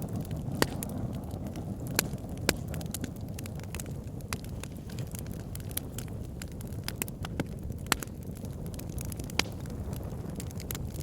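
Wood fire burning in a fireplace: a steady low rumble of flames with constant crackling and scattered sharp pops from the logs, a few of them much louder than the rest.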